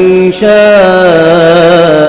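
A man's voice in melodic Quran recitation (tajwid). He holds long, drawn-out notes with a wavering ornament, with a short break and a new note about a third of a second in.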